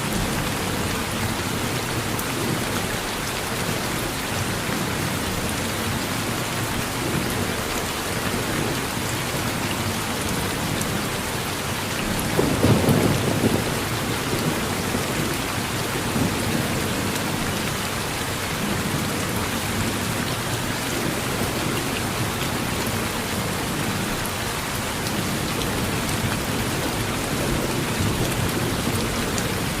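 Steady rain falling on a porch in a thunderstorm, with one short rumble of thunder a little before halfway through.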